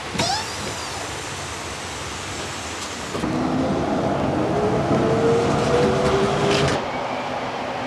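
Tram in motion: steady rolling noise, with a short high, falling squeal just after the start and a louder stretch of a few seconds in the middle carrying a low, steady motor whine.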